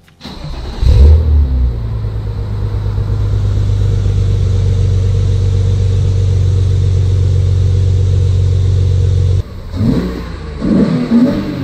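BMW E36 with a Corsa exhaust: a loud surge about a second in settles into a steady idle, then the engine is revved several times in quick blips near the end.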